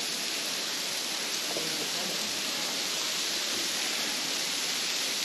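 Steady, even hiss of falling water from a small waterfall.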